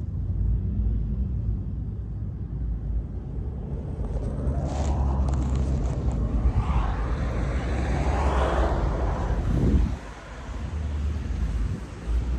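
Street noise with a motor vehicle passing: a steady low rumble, and a swell that builds to its loudest about eight seconds in, then drops away suddenly near ten seconds.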